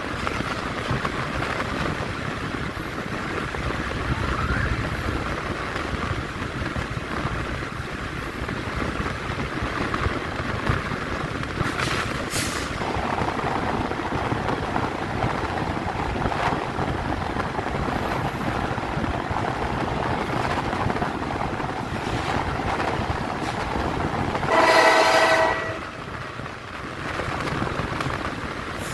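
Train running along the track with a steady rumble and rail noise, and a single train horn blast about a second long near the end.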